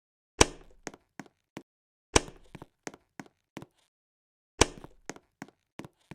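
A series of sharp knocks and clicks: three loud knocks, each with a brief ringing tail, spaced about two seconds apart, with lighter clicks in between.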